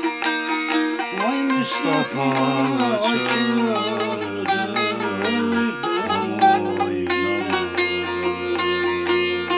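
Bağlama (saz), a Turkish long-necked lute, playing an instrumental folk tune: quick plucked strokes over a low droning string, with the melody moving up and down.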